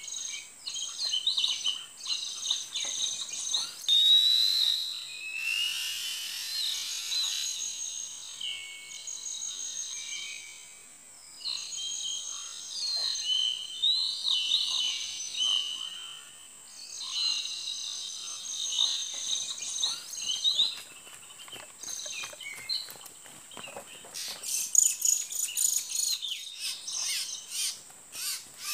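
Oriental magpie-robin song: a long run of varied whistled and chirping phrases, rising and falling, with short pauses between them. A thin steady insect whine sits high above throughout, and near the end the song gives way to rapid dry ticking and chattering.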